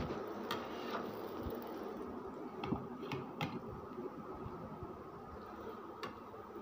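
Shami kababs shallow-frying in hot oil, a steady crackly sizzle with a few small pops and clicks.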